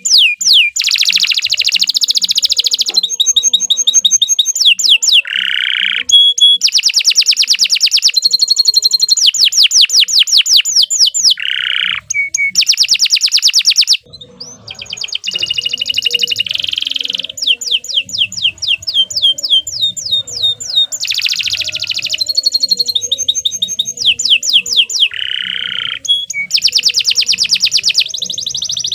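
Domestic canary singing a long, loud song of rapid trills: fast runs of repeated sweeping notes alternating with lower buzzy rolls, with a brief pause about halfway through.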